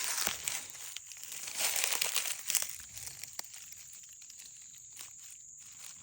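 Dry fallen leaves crunching and crackling underfoot on a forest floor, loudest in the first three seconds and then thinning to a few soft crackles, over a steady high insect trill.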